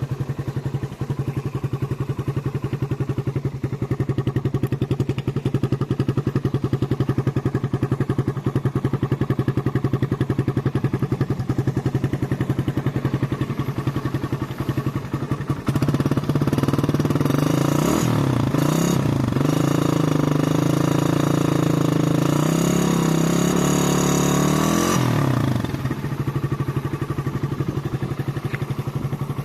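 Suzuki Satria FU 150's single-cylinder four-stroke engine on a standard exhaust, idling steadily. About halfway through it is revved up and down several times, then it drops back to idle.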